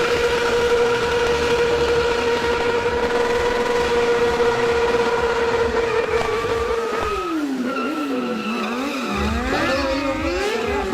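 Stunt motorcycle engine held at high, steady revs for several seconds. About seven seconds in the revs drop, waver up and down with quick throttle blips, then rise again.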